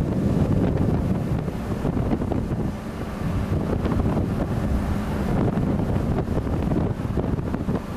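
Wind buffeting the camera microphone, a steady low rumbling rush that dips slightly in level about three seconds in.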